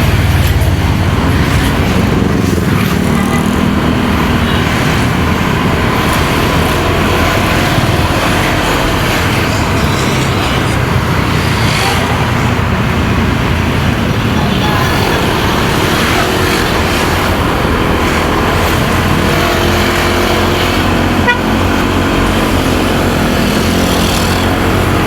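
Motorcycle engine running under way with steady road and wind noise in traffic, and a vehicle horn tooting.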